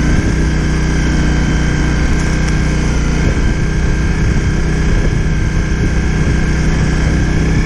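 Honda CRF250 Rally's 250 cc single-cylinder four-stroke engine running steadily at low, even revs while the bike is ridden slowly on snow.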